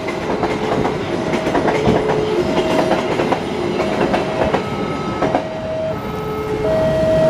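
Passenger train coaches rolling past at a level crossing, wheels clattering over the rail joints, while the crossing's warning alarm sounds a repeating two-note tone, a lower and a higher note alternating about every half second.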